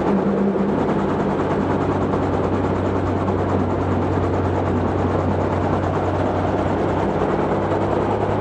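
Robinson R44 helicopter running on the ground before takeoff: a steady drone from its piston engine and rotor system, holding an even hum.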